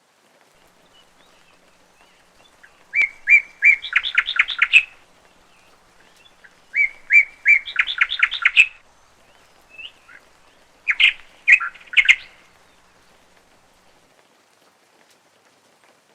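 A songbird singing three short phrases, each a few clear repeated notes that quicken into a rapid trill, with a single brief call between the second and third.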